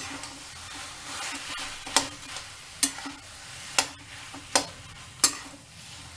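A spoon stirring a mashed-potato and vegetable stuffing in a frying pan over a low sizzle, knocking sharply against the pan about once a second.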